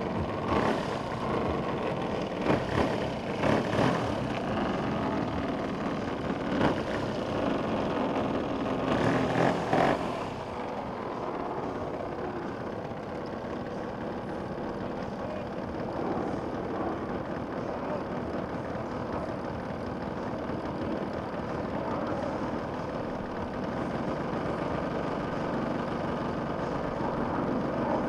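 Gas engine of a giant-scale radio-controlled Yak-54 airplane running, with several sharp rises in level during the first ten seconds, then a steadier, slightly quieter drone.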